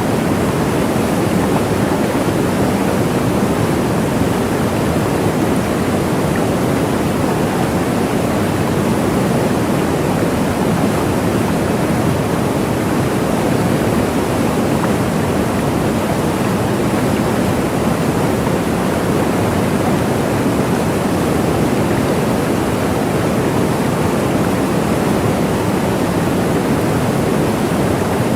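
Waterfall: a steady, unbroken rush of falling water, full and low-pitched.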